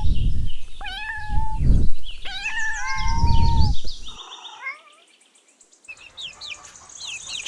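A kitten meowing repeatedly: high, thin meows for about the first four seconds. After a short near-quiet pause, faint quick cheeping of chicks near the end.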